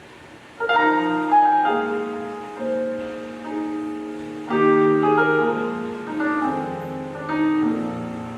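Slow solo piano introduction of a song, starting about half a second in: chords struck every few seconds, each left ringing and fading.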